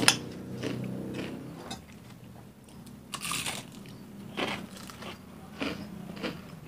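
A spoon clinks once against a plate, then crisp battered fried food is bitten and chewed, crunching in a few short bursts.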